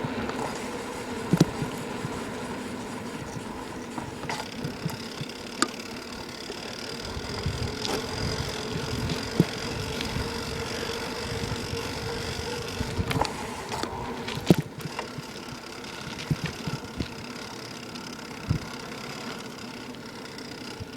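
Bicycle riding heard through a camera taped to the frame: steady rolling noise with rattles and scattered sharp knocks, the chain hitting on plastic.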